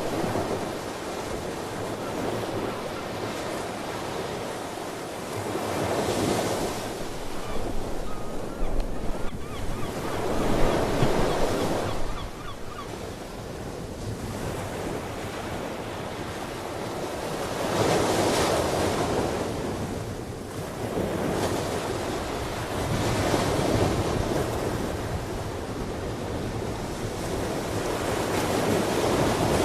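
Ocean surf breaking on a shore, the waves surging and falling back every few seconds over a steady wash of water, with some wind on the microphone.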